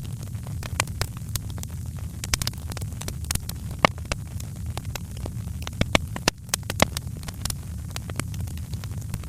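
Wood fire crackling: many irregular sharp snaps and pops, a few of them louder, over a steady low rumble of the burning fire.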